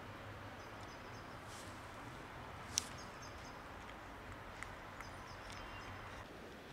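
Quiet outdoor street ambience: steady faint background noise, with a small bird chirping in three short quick runs and a few light clicks.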